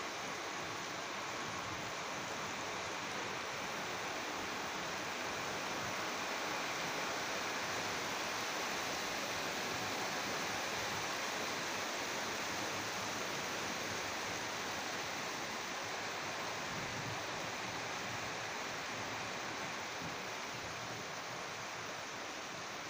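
Heavy storm rain pouring down steadily, an even hiss.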